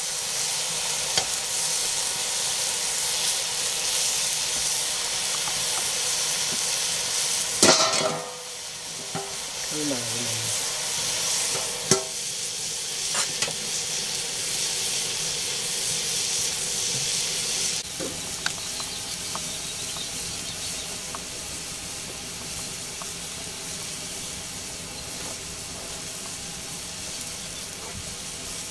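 Green vegetables sizzling as they fry in a wok over a wood fire, stirred with a ladle. About eight seconds in there is a sharp metal clang as a lid goes on the wok, and after it the sizzling is quieter.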